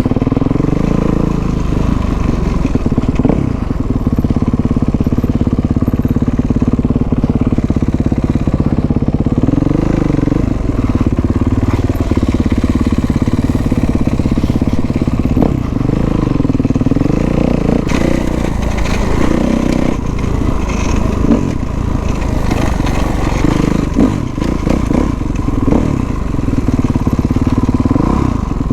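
Kawasaki dirt bike engine running under way, revved up and down again and again so its pitch keeps rising and falling.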